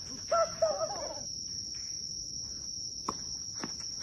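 Tennis ball being struck and bouncing in a rally: two sharp pops a little after three seconds in, over a steady high-pitched insect drone. A short voice call from a player near the start.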